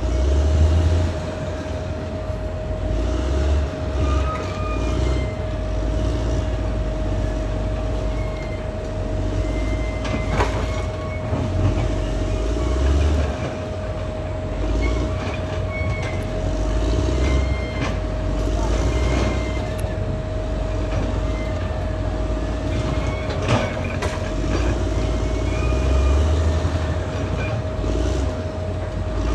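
Caterpillar D6R XL bulldozer working: the diesel engine's low rumble swells and eases under load, with a steady whine over it. The steel crawler tracks squeak and clank, with a sharp clank about ten seconds in and another near the end.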